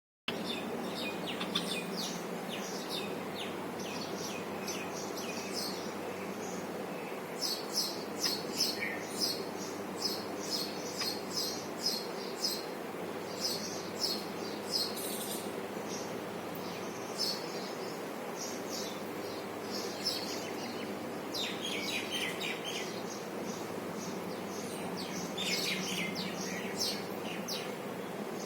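Small birds chirping: short high notes in quick runs, thickest in a few clusters, over a steady low background hum.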